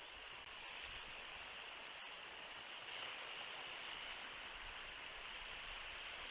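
Faint, steady outdoor hiss on the nest-cam microphone, like wind or distant surf, with no distinct calls or knocks.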